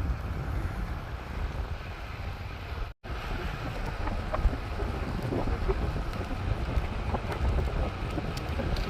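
Wind buffeting the microphone of a cyclist riding downhill: a steady, rumbling rush, cut off for an instant about three seconds in.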